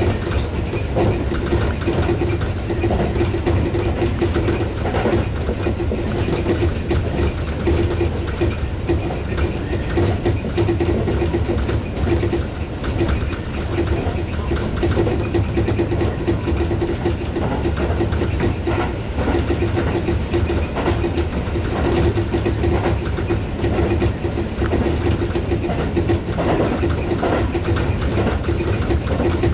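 Tobu 6050 series electric train running at speed, heard from the cab. The wheels make a steady rolling noise on the rails, with a steady hum and occasional faint knocks.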